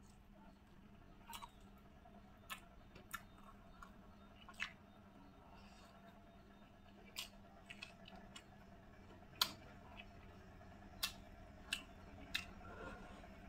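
A person eating close to the microphone: chewing with about ten irregular sharp wet clicks and smacks of the mouth, spaced a second or more apart.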